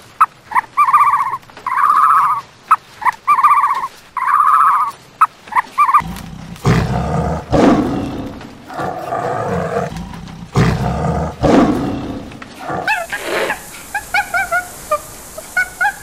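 A run of about six short, even-pitched calls fills the first six seconds. Then a tiger roars twice, loud and deep, with growling in between. Near the end come high, wavering squeaky calls.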